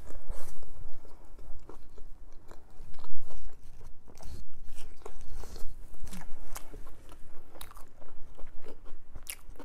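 A person chewing and crunching food close to the microphone, many short crisp crunches: crinkle-cut french fries dipped in sauce.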